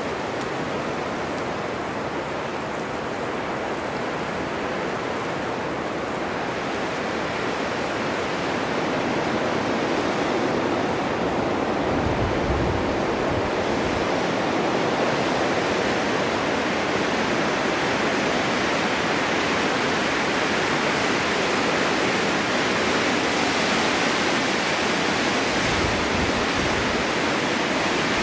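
Snowstorm wind blowing steadily, growing louder and hissier about a third of the way in, with two brief low rumbles as it gusts.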